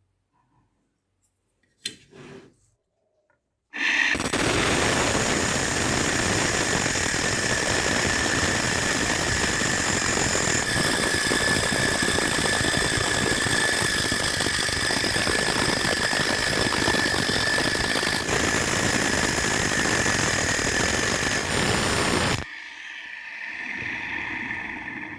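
A homemade angle grinder driven by a 775 DC motor runs with a metal cutting disc. From about 4 seconds in it makes a loud, steady grinding noise with a high whine. About 22 seconds in it drops to a quieter, steady whine. A short click comes about 2 seconds in, before the grinding starts.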